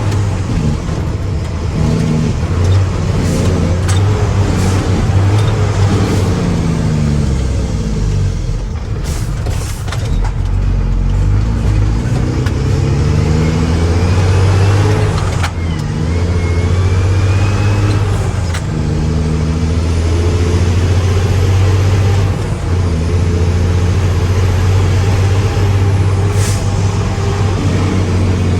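Mack truck's diesel engine running loud, its revs rising and falling several times, with a few short sharp clicks or hisses in between.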